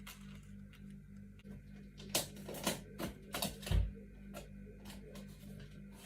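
Objects being handled: a run of sharp clicks, taps and rustles in the middle, with one low thump, over a faint steady hum.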